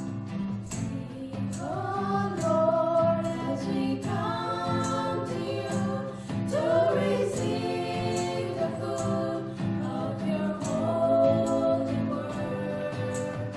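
A group of voices singing a gospel song over a strummed acoustic guitar with a steady beat; the voices come in about a second and a half in and hold long notes.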